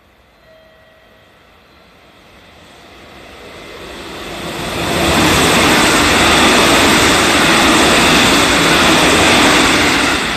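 JR Central 313 series electric train passing through the station at speed without stopping: the rumble of wheels on rail builds over about five seconds, stays loud for about five seconds as the cars go by, and begins to fade near the end.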